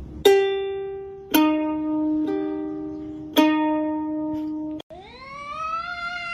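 Slow plucked-string notes on a ukulele-like instrument, each ringing out about a second apart. Near the end the music cuts off suddenly and a long pitched cry rises steadily in pitch.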